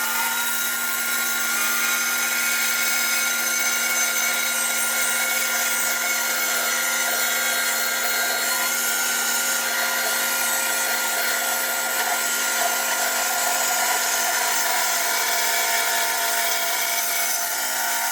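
Sawmill running and cutting through a silver maple log, a steady drone with a constant high whine.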